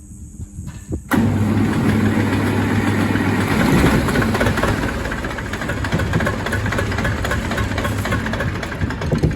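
Zetor 440 tractor's diesel engine starting up about a second in after its injection pump was freed of seized plungers, then running loudly and steadily for about eight seconds before falling away near the end. The start shows that the pump repair has worked.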